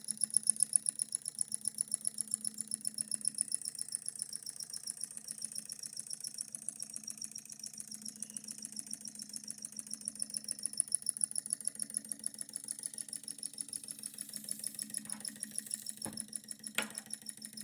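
Small beam-type hot-air (Stirling) model engine running on its stored heat with the flame capped off, its mechanism clicking in a steady rhythm of about seven beats a second. Two sharper clicks sound near the end.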